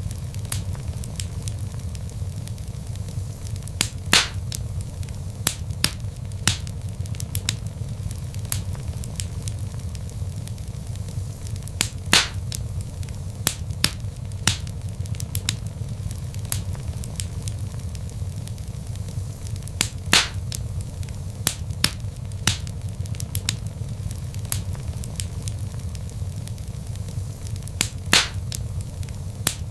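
Log fire crackling: a steady low rumble of flames with irregular sharp snaps and pops, a few of them louder, about every eight seconds.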